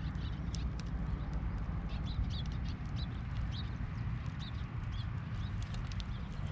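Campfire crackling with scattered sharp pops over a steady low rumble, with a run of short high chirps through the middle.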